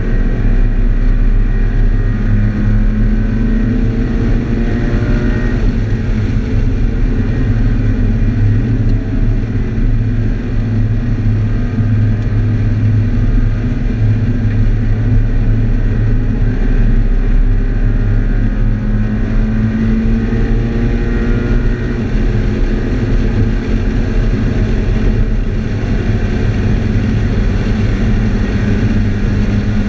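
Scion FR-S's 2.0-litre flat-four engine heard from inside the cabin while lapping a race track, the revs climbing over the first few seconds and again about twenty seconds in, over steady road noise.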